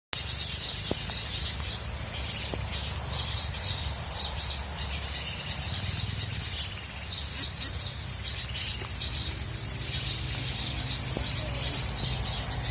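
Small birds chirping: short, high chirps in quick clusters, repeating throughout, over a steady low rumble.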